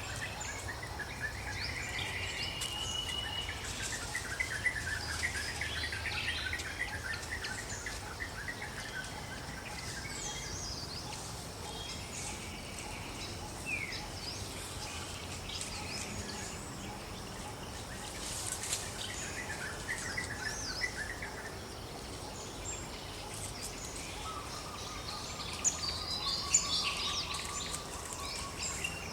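Forest ambience: several birds chirping and trilling over insect buzz and a steady background hiss, with a thin held tone joining in near the end.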